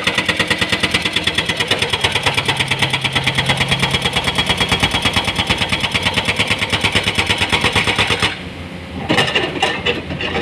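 Heavy machinery running with a fast, even pulsing, about ten beats a second, that drops away about eight seconds in, followed by a few knocks and clatter.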